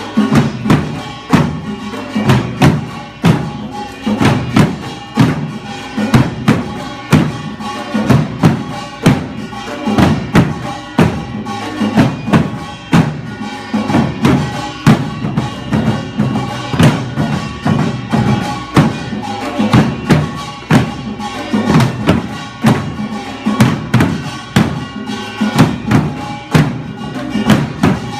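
Korean traditional percussion music for a buk drum dance: barrel drums struck in a fast, steady rhythm, with sustained pitched tones running underneath.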